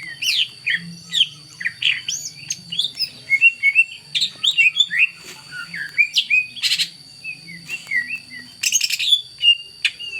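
A songbird singing a fast, varied run of short chirps and whistled notes, rising and falling, with two brief harsh rattling notes in the second half. A steady high whine runs underneath.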